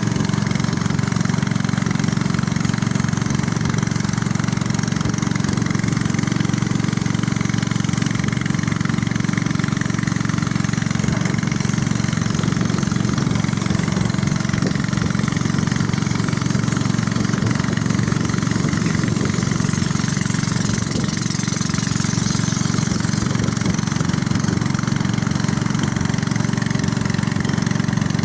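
A small river boat's motor running steadily at an even speed.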